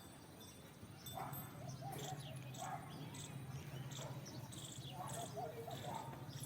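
Birds chirping in many short calls over a steady low hum.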